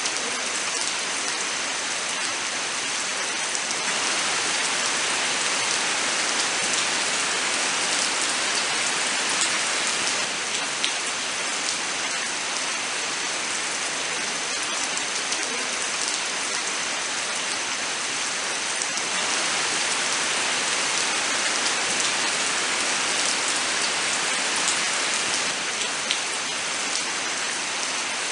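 Steady, even rain: a continuous hiss with scattered sharper drop ticks.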